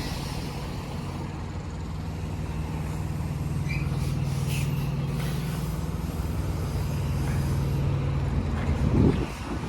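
Semi truck's diesel engine running steadily at low revs, swelling slightly in the middle, during a reverse-docking manoeuvre. A brief louder sound comes near the end.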